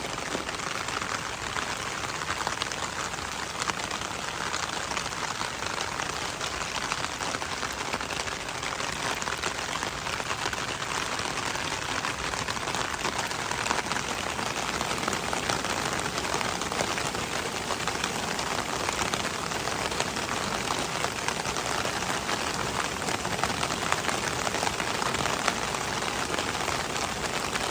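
Steady rain falling: a dense, even hiss of drops striking hard surfaces, unchanging in level throughout.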